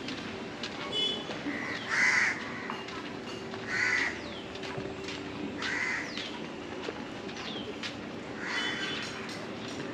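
A bird calling outside: four loud, short calls spaced about two seconds apart, over a steady low hum.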